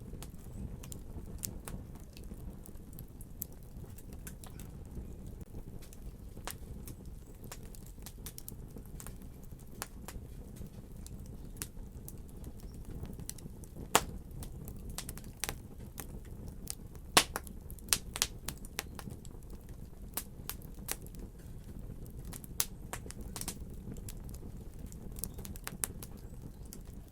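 Wood fire crackling: irregular sharp pops and snaps over a steady low rumble of burning, with a few louder pops about halfway through.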